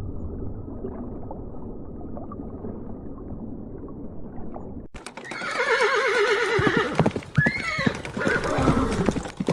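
A horse whinnying: after a muffled stretch of low noise, a long, quavering neigh begins about five seconds in and is followed by a shorter gliding call.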